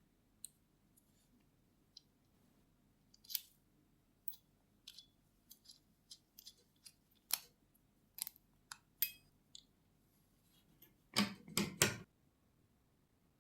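Light clicks and taps of small parts and hand tools being handled, irregular and spaced out, then a short cluster of louder rasping sounds near the end.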